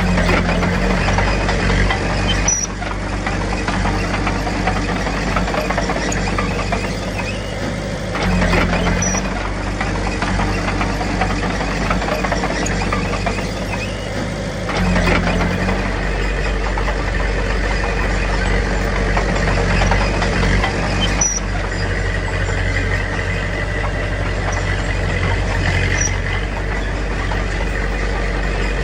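Heavy diesel earthmoving machinery running steadily. Its low engine note steps up and down every six or seven seconds, each change coming with a short clank.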